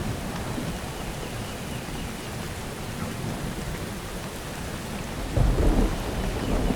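Steady rain falling, with a loud low thunder rumble breaking in about five seconds in.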